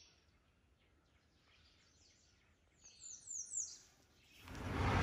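A bird calling in the woods: a quick run of four or five short, high chirps, each sweeping downward, about three seconds in. A steady rushing noise swells up near the end.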